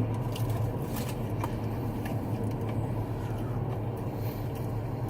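Steady low hum of an idling vehicle, with a few faint clicks.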